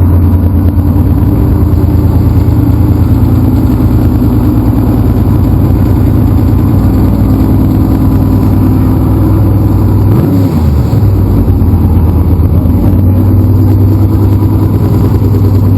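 A motor vehicle engine running loudly and steadily, with a brief swoop in pitch about ten seconds in.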